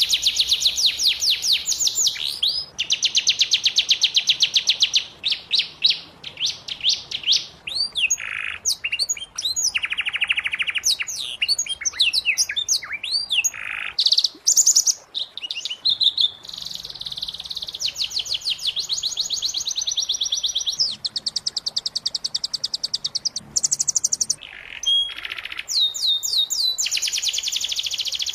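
Domestic canary singing: long runs of very fast trills, each held for a second or two before switching to a different trill, with short breaks between phrases.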